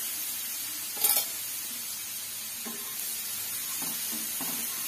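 Ginger, garlic and coriander paste sizzling in hot oil in a nonstick frying pan while a wooden spatula stirs it, sautéing the paste until it browns. One brief louder noise about a second in.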